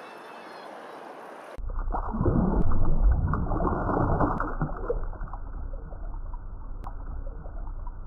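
A steady wash of open water, cutting about a second and a half in to loud, muffled gurgling and bubbling of water in a reef aquarium, deep and churning with fine crackle.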